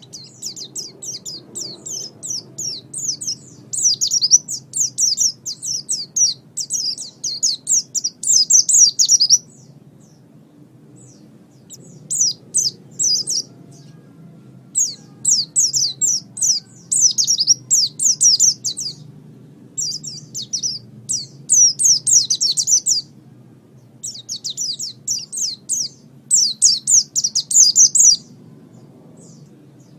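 White-eye (pleci) singing in long phrases of rapid, high twittering chirps. A long run in the first nine seconds is followed by four shorter bursts with brief pauses between them.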